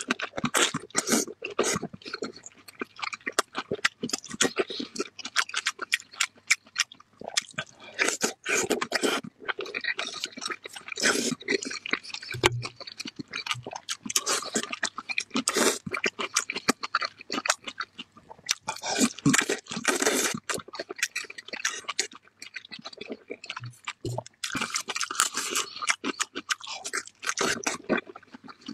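Close-up ASMR chewing and biting of red-braised pork belly: a dense, irregular run of mouth noises, bites and crunches.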